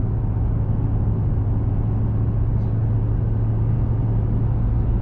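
Small pickup truck driving at steady speed, heard from inside the cab: an even low drone of engine and tyre road noise.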